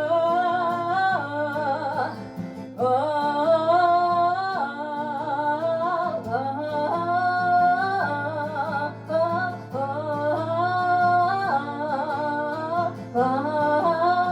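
Live rock-ballad cover: a female voice sings a melody in long held, sliding phrases over acoustic guitar.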